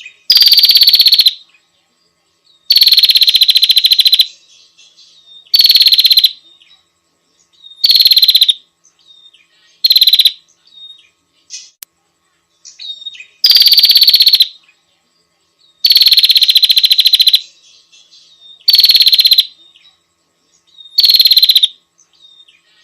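Female prinia (prenjak) calling: loud, rapid buzzy trills, each about a second long, repeated about every two to three seconds, nine of them, with faint short chips in the gaps.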